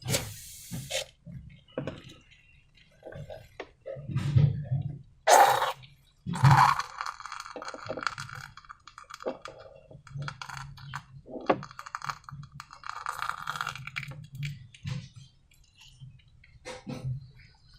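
Hands working slime and transparent balloons: irregular clicks, crinkles and sticky squelches, with two louder bursts about five and six and a half seconds in.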